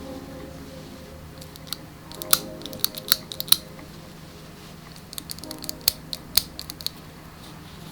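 Two runs of quick, sharp clicks and snips, each about a second and a half to two seconds long, over soft background music.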